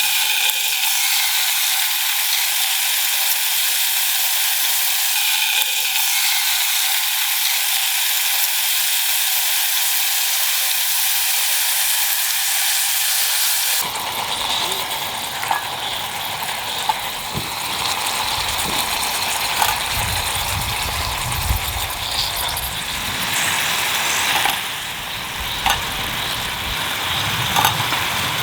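Sukiyaki sizzling in a pan over a small wood-burning camp stove, a steady hiss. About halfway through, the sound changes to a fuller, lower sizzle with scattered small clicks.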